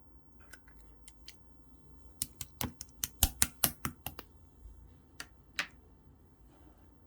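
Clear slime being pressed and folded by hand, giving a run of sharp clicks and pops: a few scattered ones, a dense cluster through the middle, then two more.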